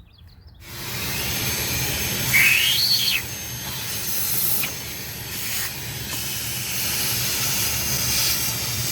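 Vacuum cleaner switched on about half a second in and running steadily, sucking debris out of the cabin air filter housing; a brief whistle rises and falls about two and a half seconds in.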